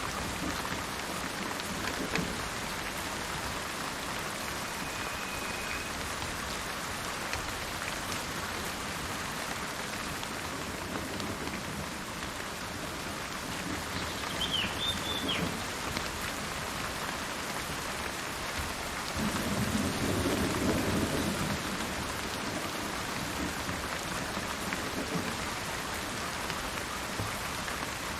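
Steady rain falling in a forest, with a low roll of thunder about two-thirds of the way through. A bird chirps briefly twice, near the start and about halfway.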